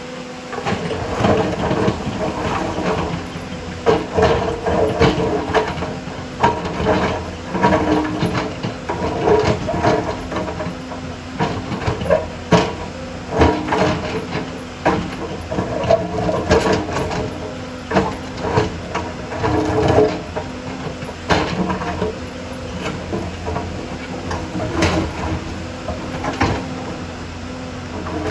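Excavator's diesel engine running steadily under load, with frequent irregular knocks and clatter from the machine working rock and soil.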